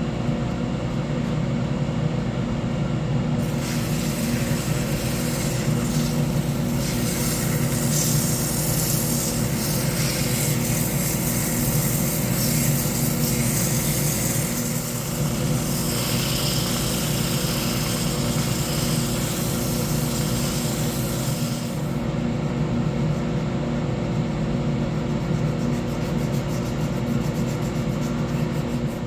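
Wood lathe running with a steady motor hum. From a few seconds in until about two-thirds through, a steady hiss of a tool or abrasive working the spinning wood rides over the hum.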